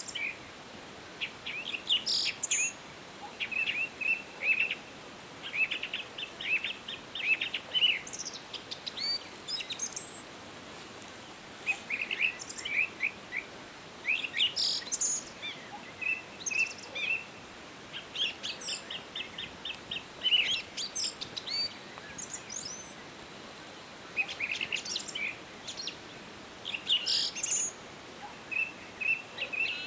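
Wild songbirds singing in a forest, with quick series of short chirps and trills repeated in phrases throughout, over a faint steady background hiss.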